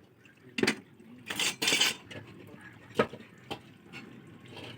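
Metal pieces being handled: several separate clinks and knocks, with a short scrape of metal on metal about a second and a half in.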